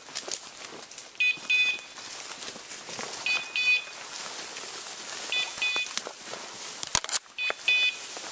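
Bird dog's beeper collar sounding a high double beep about every two seconds, over the rustle of walking through brush.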